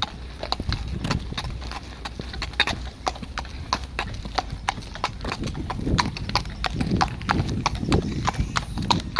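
Hooves of a walking horse striking hard ground in a steady clip-clop, about four hoofbeats a second.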